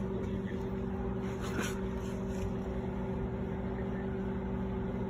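Iris Ohyama IMB-F182-6 microwave oven running during an operation check: a steady electrical hum and drone that holds unchanged.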